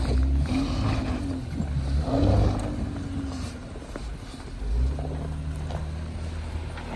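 Jeep Wrangler engine running as it crawls over the trail, rising in pitch briefly a couple of times in the first half, then running steadier with a swell in loudness later on.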